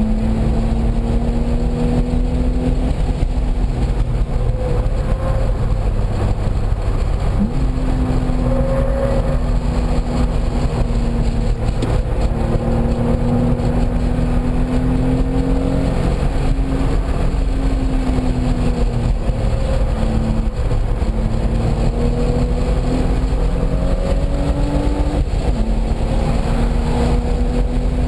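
Car engine under hard running on a race track, its pitch climbing and then dropping back every few seconds as the driver shifts and lifts, about five times. Heavy low rumble of wind and road noise on the onboard microphone underneath.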